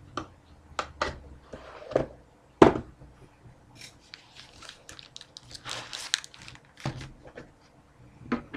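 Trading-card packs being handled: sharp knocks and taps as they are set down, with foil wrappers crinkling for about a second near the middle. The loudest knock comes about two and a half seconds in.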